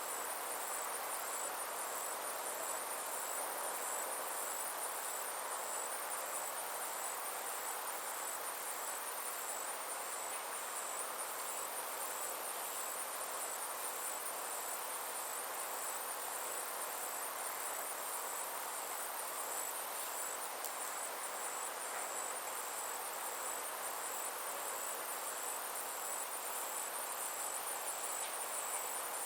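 Summer insects chirping in a steady, fast, high-pitched pulsing chorus, over a soft, even rushing background.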